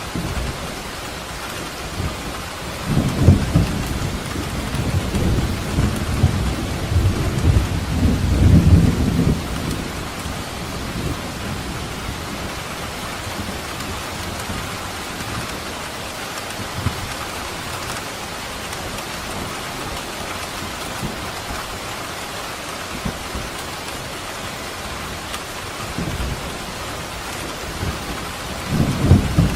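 Steady rain with rolling thunder: a long low rumble for about seven seconds early on, and another beginning near the end.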